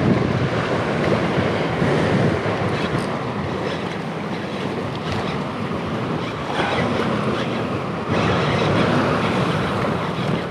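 Wind buffeting the microphone over the steady wash of sea waves, unbroken throughout.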